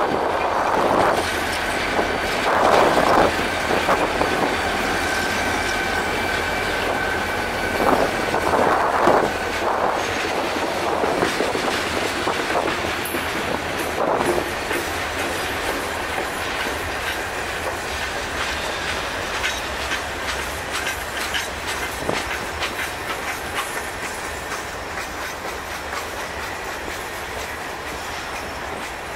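A freight train passing close by: the two SD40-2 diesel locomotives run past first, with a thin steady high tone over the first ten seconds. Then a string of loaded grain hopper cars rolls by, its wheels clicking rhythmically over the rail joints and slowly fading.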